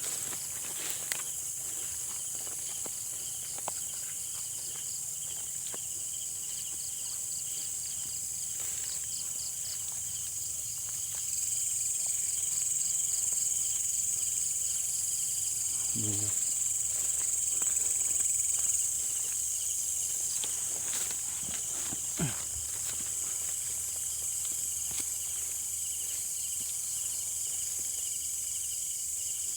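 Night chorus of crickets and other insects: a steady high-pitched shrill with a fast pulsing trill beneath it, swelling a little in the middle. A brief low sound about halfway through and a few faint clicks.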